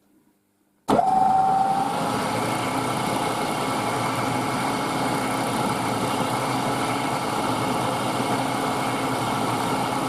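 Milling machine spindle motor switched on about a second in, with a brief whine as it spins up, then running steadily for a light test cut in brass.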